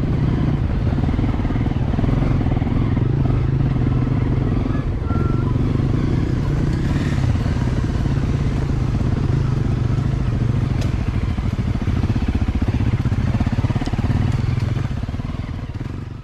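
Dirt bike engine running at a steady, low pitch while riding over rough ground, fading out near the end.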